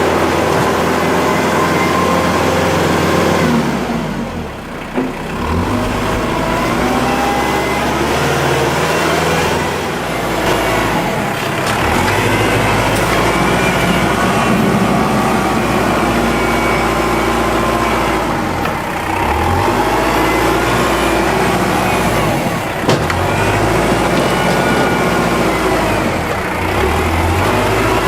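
Kubota L5740 tractor's diesel engine running hard, its pitch dipping and picking back up several times as the load changes.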